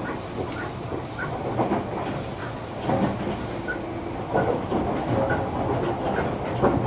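Running noise heard inside a JR Kyushu 305 series electric train's motor car under way: a steady rumble of wheels on rail with irregular knocks as the wheels pass rail joints.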